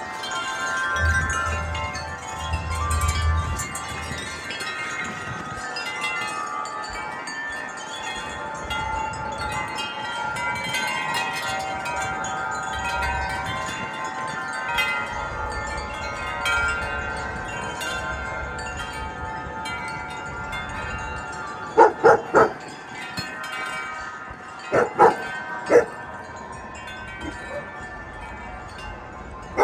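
Several sets of tuned wind chimes ringing continuously in gusty wind, many tones overlapping. A dog barks in two short runs of about three barks each, a little past two-thirds of the way through.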